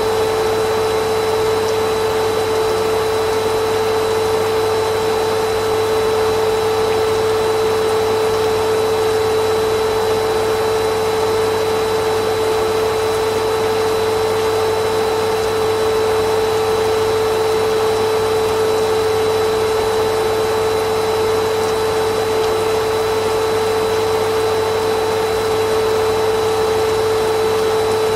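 Vacuum cleaner motor running steadily, a constant rushing noise with a strong steady hum.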